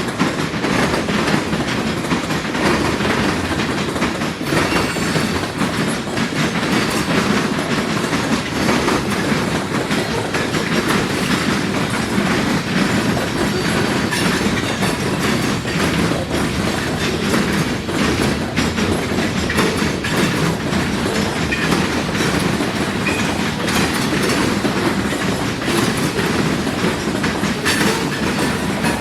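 Freight cars of a long freight train rolling over a railroad diamond crossing, the wheels clattering across the gaps in the crossing in a steady, unbroken run of clicks and bangs.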